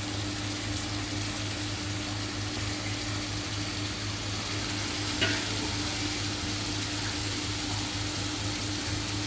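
Melted butter tadka with red chilli sizzling gently in a wok around a mound of mustard-greens saag, a steady even hiss over a faint low hum. A single light tap comes about five seconds in.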